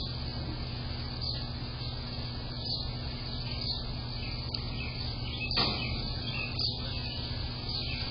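Short, high chirping calls of small birds repeated every second or so, over a steady low hum. There is one louder, sharper sound about five and a half seconds in.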